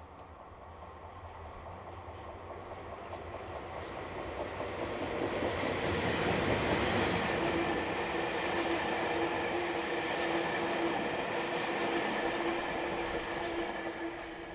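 DE11 diesel-hydraulic shunting locomotive hauling a short rake of railcars past, the noise growing louder over the first six seconds or so and then holding, with a steady tone coming in about halfway through.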